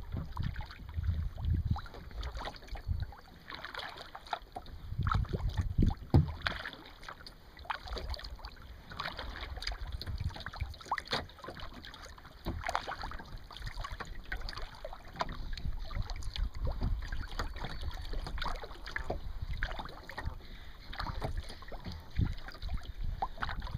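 Kayak paddle dipping and pulling through water, with irregular splashes and drips from the blade, and low wind rumble on the microphone.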